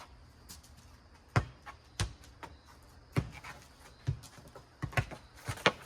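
A ball being bounced and struck in a game of four square: a string of sharp thumps at uneven gaps, some close together near the end.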